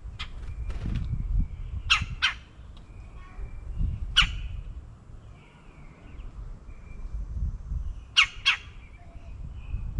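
Birds at a backyard feeder giving short, harsh squawks: a pair about 2 seconds in, a single one near 4 seconds and another pair near the end. Fainter chirps come in between, over a low rumble.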